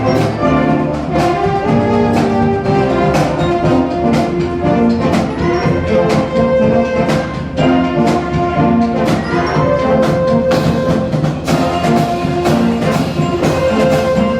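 Brass band playing a tune, trumpets and trombones carrying held notes over a steady beat of percussion strikes.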